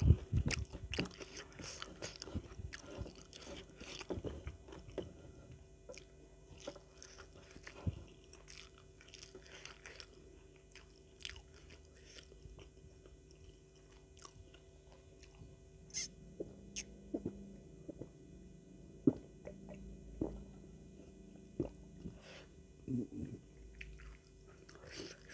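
Close-miked chewing and biting of a mouthful of rice, with occasional crunches. The chewing is busy for about the first ten seconds, then thins out to scattered smacks and clicks.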